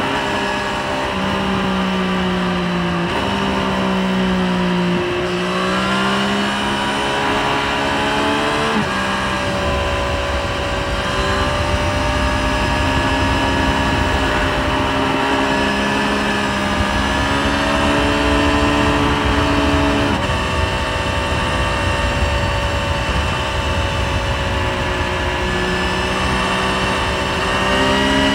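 Triumph Street Triple 765 RS's inline three-cylinder engine running at road speed, heard from the rider's seat. Its pitch holds steady for several seconds at a time, then dips and climbs in steps and short glides with the throttle.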